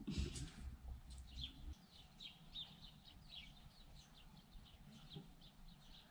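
Faint bird chirps: short high notes, each falling in pitch, a few a second. A low rumble underneath stops about two seconds in.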